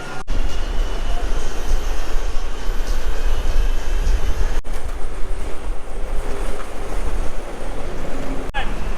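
Heavy wind rumble on the microphone mixed with city street traffic noise, as heard riding an electric skateboard through the streets. The sound drops out for an instant three times.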